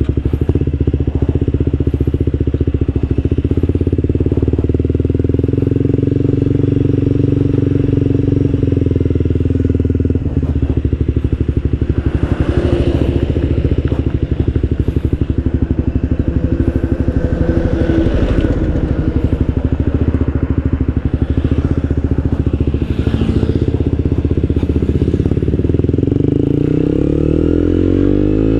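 Suzuki GSX-R150's single-cylinder engine running through an Akrapovic Purbalingga aftermarket exhaust with no dB killer fitted, heard on the move during a test ride. The exhaust note holds fairly steady, then rises in pitch near the end as the bike accelerates.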